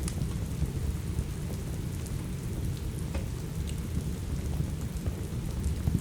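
Steady rain ambience with a heavy, deep low rush, and a few sharp crackles of a burning wood fire: one at the start, a couple around three seconds in, and one near the end.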